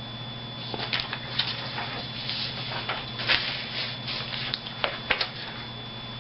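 Scattered rustles, taps and short scrapes of objects being handled, over a steady electrical hum.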